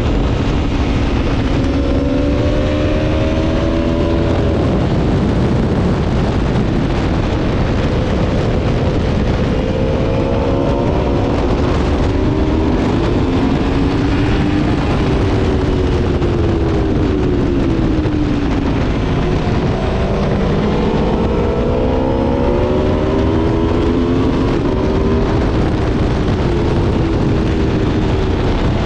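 Aprilia Tuono V4's V4 engine running hard, its note rising and falling repeatedly as the bike accelerates and slows, under a heavy rush of wind noise.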